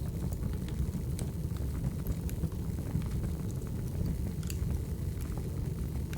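Crackling wood fire: a steady low rumble of burning logs with scattered small pops and snaps.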